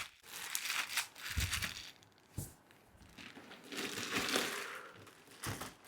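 Plastic wrapping crinkling and rustling in irregular bursts as it is handled and pulled off, with a sharp click about two and a half seconds in.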